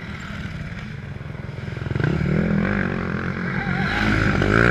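Motocross bike engine running, growing louder from about two seconds in.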